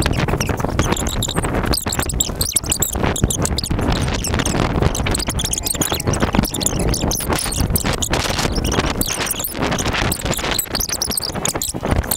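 Loud, uneven rustling and knocking over a low rumble, typical of wind buffeting and handling noise on a handheld camera carried on foot.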